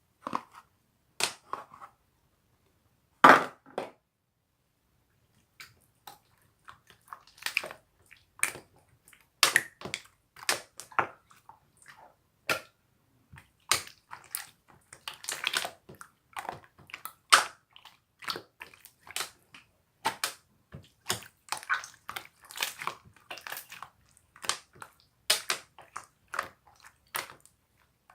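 Slime being squeezed and pressed by hand, making irregular sharp clicky pops and wet squelches as air pockets burst. The pops come quicker and denser from about six seconds in.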